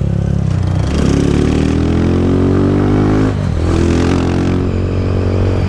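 Motorcycle engine under way, accelerating: its note climbs in pitch from about one second in, breaks about three seconds in, then carries on, over steady wind noise on the rider's microphone.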